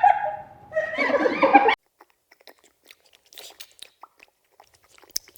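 A farm animal gives two short, loud pitched calls, then soft, irregular crunching as it chews feed.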